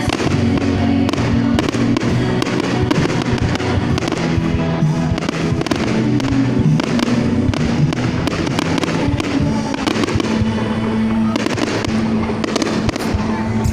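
A fireworks display, with a rapid, continuous run of bangs and crackles, over music playing.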